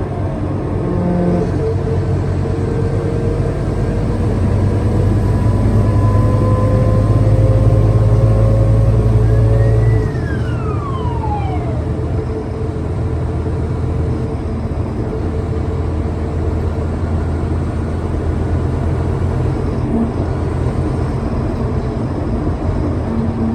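Scania K320UA bus accelerating. Its engine and drivetrain whine rise slowly in pitch for about ten seconds, then the engine note drops suddenly, with a whine falling in pitch, as the gearbox shifts up. It then pulls on steadily in the higher gear.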